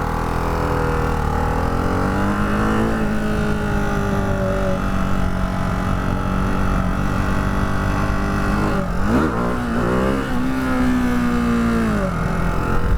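Ducati Hypermotard 698 Mono's single-cylinder engine pulling under way. Its revs climb over the first few seconds and hold steady. About nine seconds in they rise and fall quickly a few times, then hold again and drop near the end.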